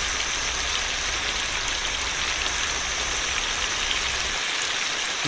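Chicken frying in hot oil, a steady sizzle with fine crackling. A low rumble underneath stops about four seconds in.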